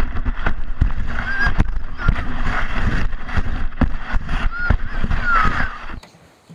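Sled running down a bumpy snow track: a steady low rumble broken by many knocks and thuds, with a few short high squeals. It cuts off abruptly about six seconds in.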